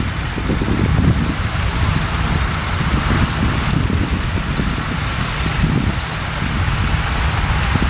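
Low, steady engine rumble from a tractor, with wind buffeting the microphone.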